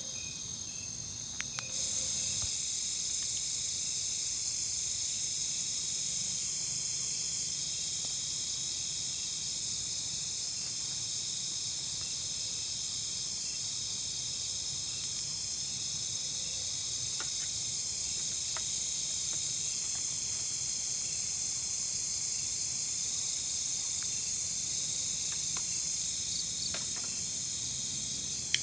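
Night insects chirring in a steady high-pitched chorus with a regular pulsing beat. A couple of faint clicks come about a second and a half in, and a sharp tick comes at the very end.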